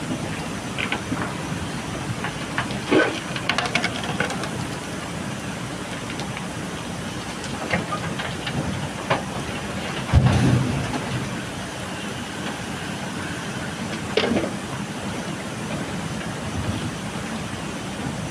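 JCB backhoe loader's diesel engine running steadily, with scattered metallic clanks and rattles and a heavy low thump about ten seconds in.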